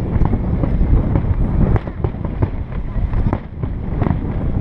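Aerial fireworks going off over a heavy low rumble, with many sharp bangs in quick succession.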